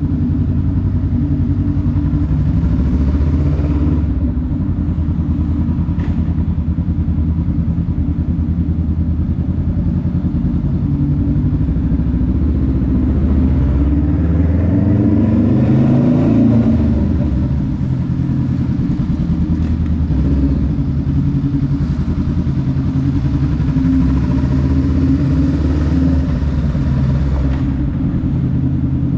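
Honda Rebel 500's 471 cc parallel-twin engine running steadily on the move. About halfway through, its pitch rises as it revs up, then drops back.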